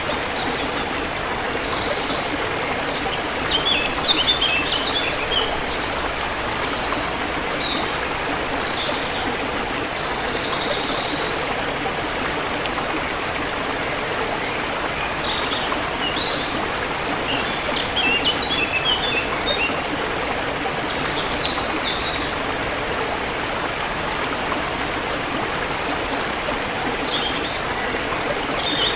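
Forest river flowing steadily, with small birds chirping in quick runs of high notes every few seconds over the water.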